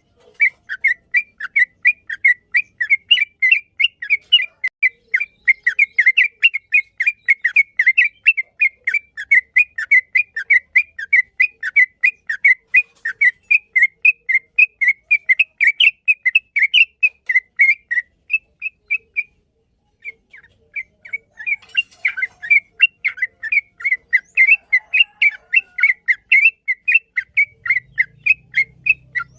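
Yellow-vented bulbul (trucukan) song: a long rapid run of short whistled chirps, about five a second, that breaks off for about a second roughly two-thirds of the way through and then resumes.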